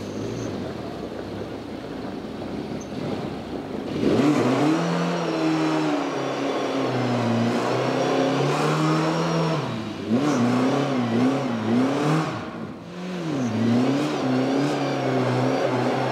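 Rally car engine revving hard, getting much louder about four seconds in, its pitch climbing and dropping repeatedly as the driver shifts gears and lifts off.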